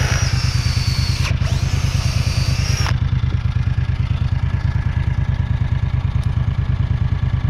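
Small engine running steadily with a fast, even low pulse. A high hiss and thin whine above it stop abruptly about three seconds in.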